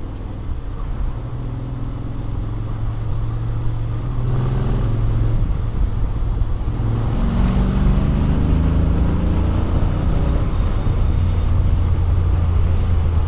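Honda X-ADV 750's parallel-twin engine running on the move through its stock exhaust with an Akrapovic header. The engine note climbs in pitch about four seconds in and again around seven seconds, getting louder as it pulls.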